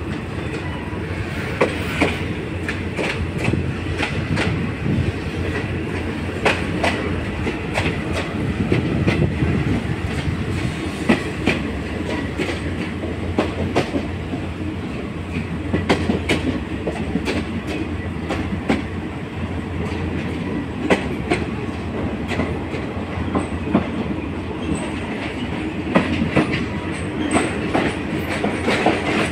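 Passenger train rolling on its rails, heard through an open carriage window: a steady rumble with irregular sharp clacks as the wheels cross rail joints and points.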